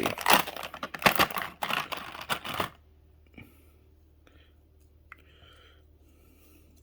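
Plastic packaging crinkling and crackling as the model is unwrapped and handled, a quick run of sharp crackles and clicks for about two and a half seconds that then stops, leaving only faint room hum with a few soft rustles.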